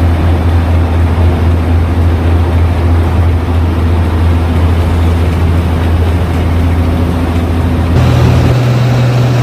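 Heavy vehicle engine running steadily with a deep drone; its pitch steps up about eight seconds in.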